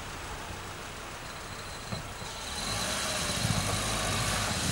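A car engine pulling a sedan forward out of deep snow, running louder from about two and a half seconds in as the car drives through the snow.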